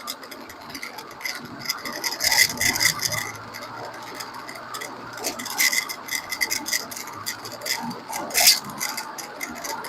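Irregular clicking and rattling from near the left rear wheel of a 30-series Toyota Prius on the move, picked up close to the wheel over road noise, with a few louder clicks about two to three seconds in and again near the end. The cause is not yet found; the owner wonders whether it is the 'karakara' rattle typical of an early-failing hub bearing.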